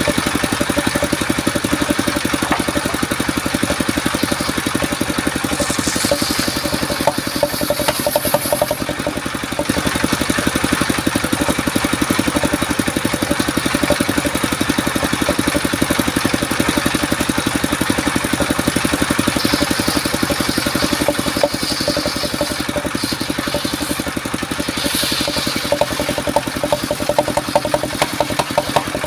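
The engine of a portable circular-saw sawmill running steadily with a rapid even beat, with brief spells of higher hiss about a quarter of the way in and again in the second half.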